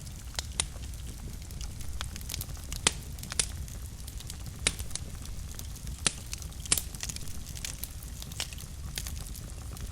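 Wood fire in a fireplace crackling: a low steady rumble of the flames with irregular sharp pops and snaps, a few louder ones spread through.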